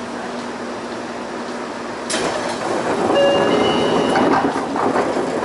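Railway train noise: a steady background that turns suddenly louder and rattling about two seconds in, with a brief high squeal in the middle, and drops back right at the end.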